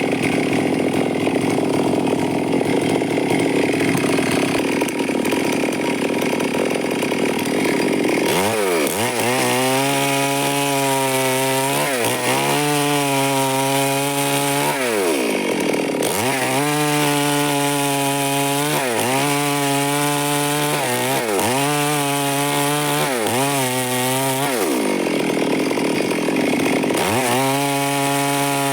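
Stihl chainsaw cutting through wood for the first eight seconds or so. The engine then runs at high speed, dropping sharply in pitch and recovering about five times as the throttle is eased and opened again.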